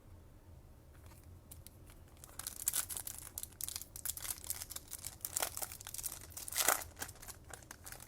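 Foil trading-card pack wrapper being torn open and crinkled, a run of crackling starting about two seconds in and peaking near the end.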